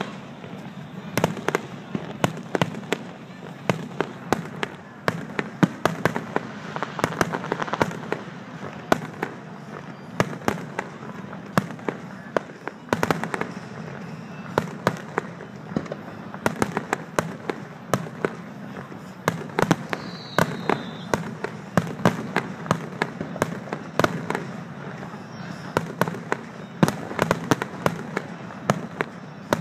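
Aerial fireworks display: shells bursting in quick, irregular succession, several sharp bangs a second over a steady low rumble.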